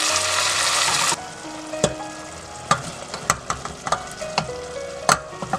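Cooked beans, peas and lentils sizzling loudly as they hit hot oil in a stainless steel pan, the sizzle dying down about a second in. A quieter frying hiss follows, broken by about seven sharp clinks of utensils against the pan as the rest is scraped in.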